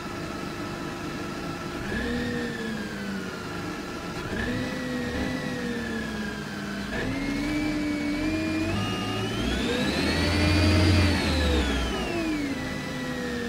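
The 2003 Mercedes C180 Kompressor's supercharged M271 four-cylinder engine is being revved while stationary. The revs climb in several steps to a peak about ten seconds in, then drop back towards idle, and a high whine rises and falls with the revs.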